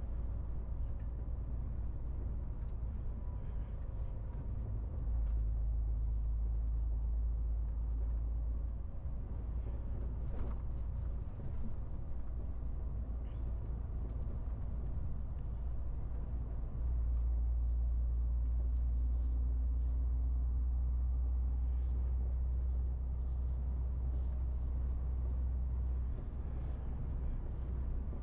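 MAN TGX 18.470 truck's six-cylinder diesel engine running while driving, a deep steady drone with road noise. It grows louder about five seconds in and again, more strongly, from about seventeen seconds in, then eases a little near the end.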